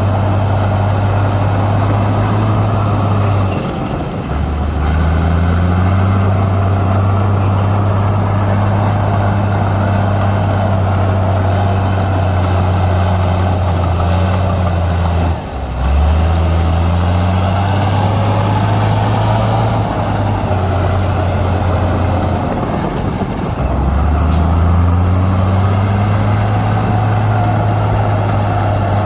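Heavy diesel engine of earthmoving machinery running steadily and loud, its engine speed dropping and picking up again about 4, 15 and 24 seconds in.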